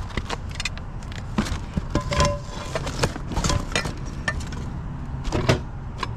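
Scrap items being handled and sorted by hand: irregular clanks, knocks and rattles of metal pieces, with a short ringing note about two seconds in, over a steady low hum.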